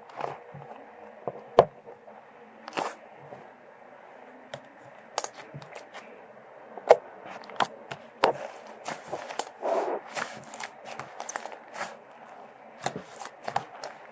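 Slime being squeezed and pressed by hand: squishy handling with irregular sharp popping clicks, the loudest a little over a second in and about seven seconds in.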